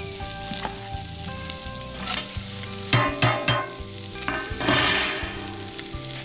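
Sliced sausage and onions sizzling in a cast-iron Dutch oven. About three seconds in come a few sharp metallic knocks as shredded cabbage is tipped in off a metal plate, then a louder rush of sizzling.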